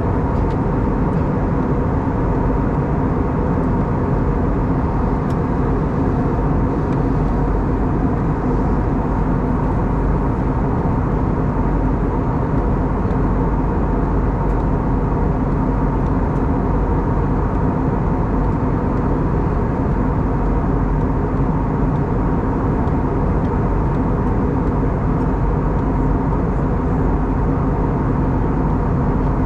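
Steady in-flight cabin noise of an Airbus A320neo airliner: a constant drone of its CFM LEAP-1A engines and the airflow past the fuselage, with a few steady hum tones.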